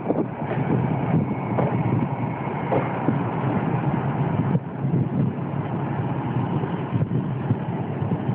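A departing passenger train rolling past close by: Corail coaches running over the rails with a steady rumble and a few scattered knocks, hauled by a BB 67400 diesel locomotive.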